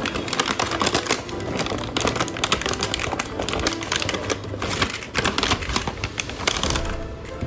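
Rapid, irregular clicking and rattling over background music.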